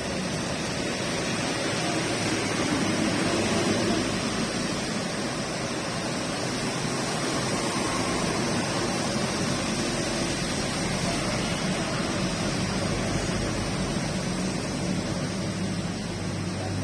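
Steady rain falling, an even hiss of noise.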